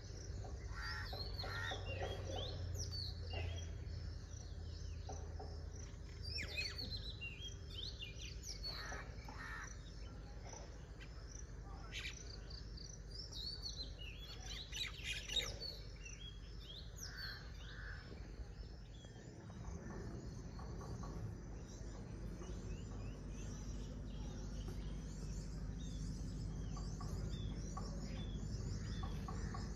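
Several birds chirping and calling in quick, high notes and short pitch glides, over a steady low hum.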